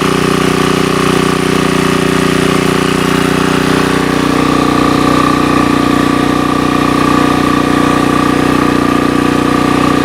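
Sportsman GEN2000 portable generator's small engine running steadily at a constant speed on its newly replaced carburetor, working fine.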